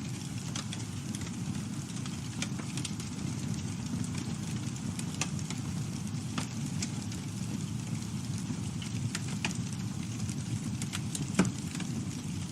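Campfire burning: a steady low rumble with scattered sharp crackles and pops, one louder pop near the end.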